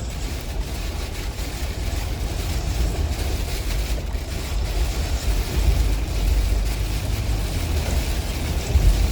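Storm wind and heavy rain, with a steady low rumble of wind buffeting the microphone.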